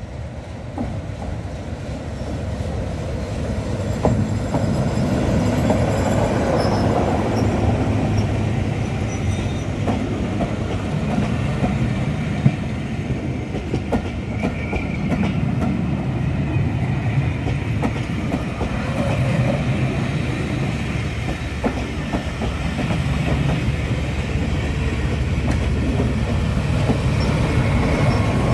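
A diesel-hauled passenger train passing close by: the leading diesel locomotive's engine grows louder as it approaches, then comes the steady rumble and clatter of the coaches' wheels on the rails. Near the end the level rises again as the Class 14 diesel-hydraulic D9531 on the rear passes with its engine running.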